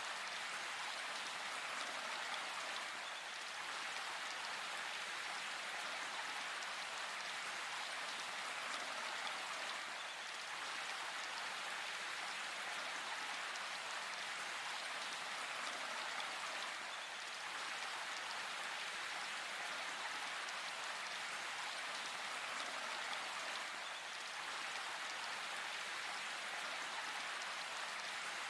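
Steady rain falling in a forest: an even, unbroken hiss of drops, with no thunder.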